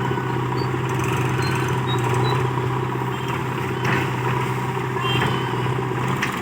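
Heavy diesel engine running steadily with a low, even hum, which stops shortly before the end.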